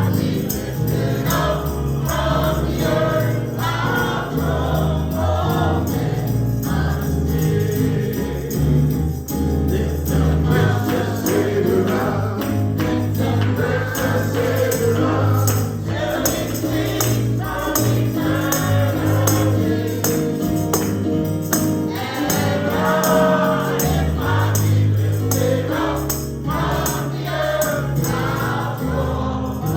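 Gospel choir singing over a bass line, with tambourine shaken along.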